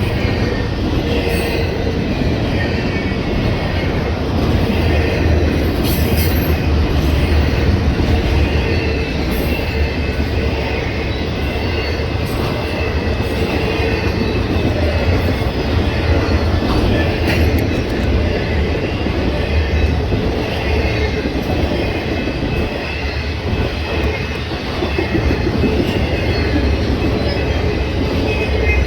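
Train cars rolling past at speed: a steady, loud rumble of wheels on rail, with a thin wheel squeal riding over it.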